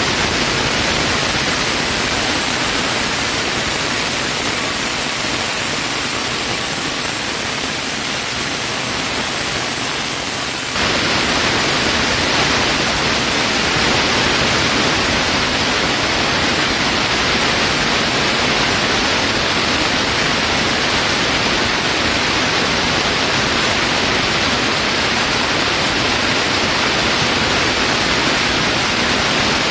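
Sawmill band saw cutting lengthwise through a chinaberry log, giving a steady, loud rushing noise. About eleven seconds in it suddenly gets louder and stays so.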